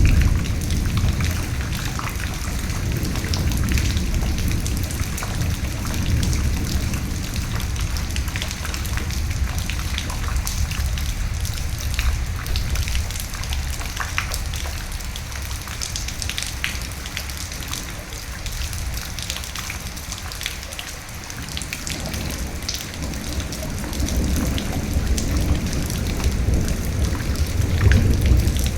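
Steady heavy rain with individual drops ticking, over a low thunder rumble that is strong at the start, fades through the middle and builds again near the end.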